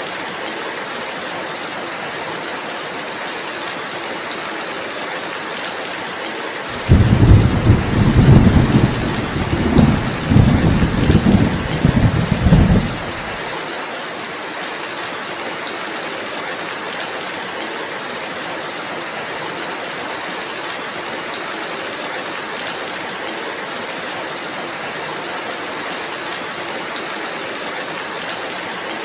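Steady rain hiss, with a peal of thunder that breaks in suddenly about seven seconds in, rumbles in several swells for about six seconds, then fades back into the rain.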